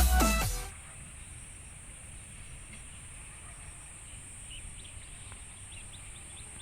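Electronic dance music ends within the first second. After that there is faint outdoor ambience with a steady high-pitched whine and a low rumble, and small bird chirps scattered through it.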